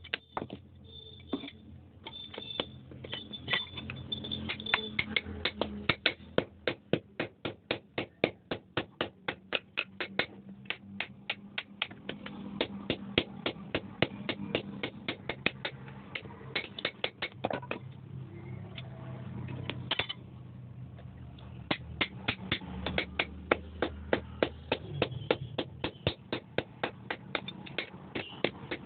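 Hand hammer blows on hot iron at the anvil: runs of quick, evenly spaced strikes, about three or four a second, that pause briefly twice, over a steady low hum.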